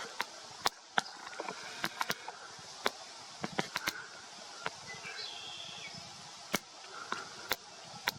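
Irregular sharp clicks and ticks, several a second, with a faint bird call about five seconds in.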